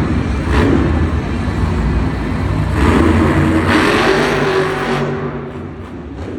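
Monster truck's supercharged V8 revving hard, loudest from about three to five seconds in, then easing off toward the end.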